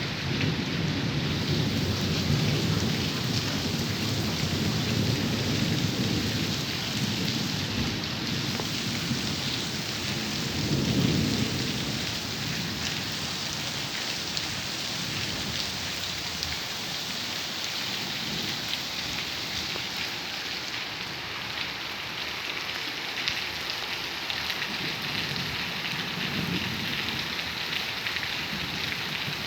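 Steady heavy rain hissing on surfaces, with low rumbles of thunder rolling through the first half, loudest about eleven seconds in, and a weaker rumble near the end.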